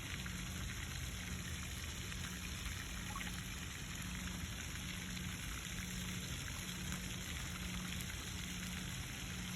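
Park fountain's falling water splashing steadily, an even hiss with no breaks.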